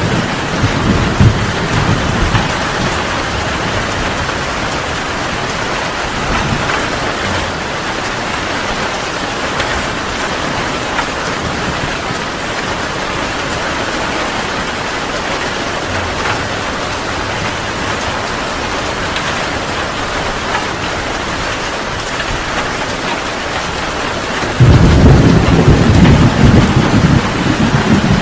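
Heavy rain pouring steadily. Thunder rumbles low at the start, then a loud clap of thunder breaks in near the end and keeps rolling.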